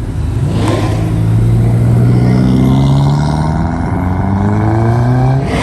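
A car engine revs up about half a second in, then holds a loud, steady note for several seconds before cutting off just before the end.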